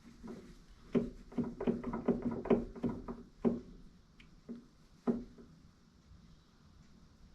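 Metal parts knocking and clanking with a short ring, a quick run of about a dozen strikes from about a second in, then one more about five seconds in.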